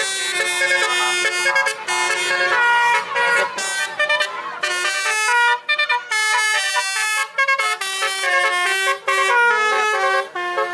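Basuri musical air horn on a truck playing a melody: a quick run of held notes stepping up and down, several horn tones sounding together, with a couple of brief breaks.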